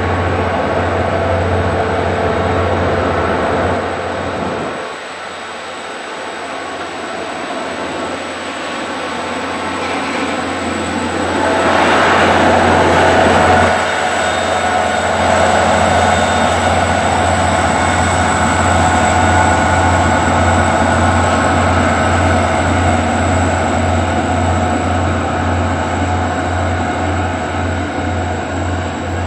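Diesel-hauled passenger train running past on the line. It dips about four seconds in, builds to its loudest about twelve seconds in, then carries on steadily with an even rhythmic pulsing in the low rumble.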